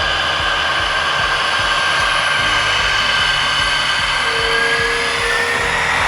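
Aircraft engine running steadily, a loud even drone with faint tones that drift slowly, one rising gently near the end.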